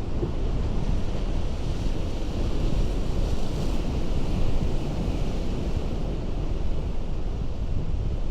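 Ocean surf breaking on a rocky coast: a dense, steady wash of water noise. It swells as a wave breaks about four seconds in.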